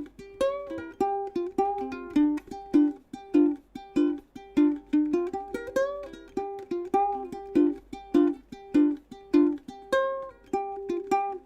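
Waterman by Kala plastic ukulele played unamplified: a fingerpicked melody of quick plucked notes, with a few notes bending up in pitch.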